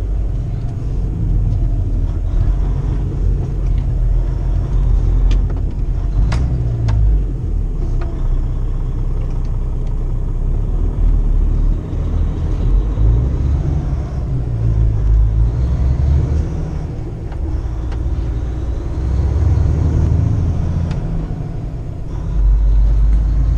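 Kenworth T680 semi truck's diesel engine and drivetrain running while driving, heard from inside the cab as a deep drone that swells and eases with the throttle. A few short sharp clicks come through about a third of the way in.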